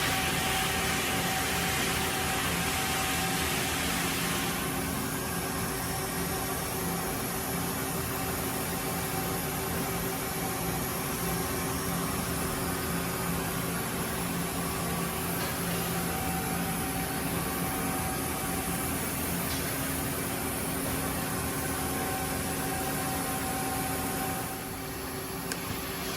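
A Mazak Slant Turn 60NRB CNC lathe running under power: a steady machine hum with several fixed tones under an even hiss. The hiss eases a little about four seconds in, and the level drops slightly near the end.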